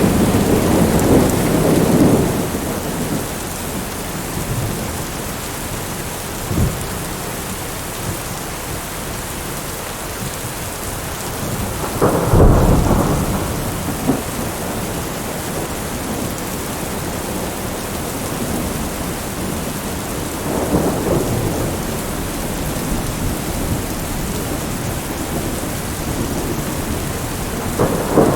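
Heavy rain beating on a window glass, a steady hiss, with rolls of thunder rumbling over it: one near the start, a louder crack and rumble about twelve seconds in, and softer rumbles later on.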